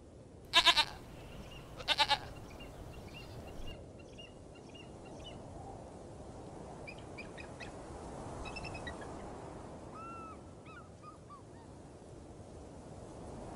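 Goat bleating twice, two short quavering bleats about a second and a half apart. Later, faint bird chirps over a low outdoor background.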